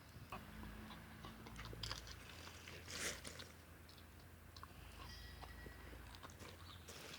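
Samoyed dog chewing and crunching food, a scatter of irregular crunches with the loudest about three seconds in.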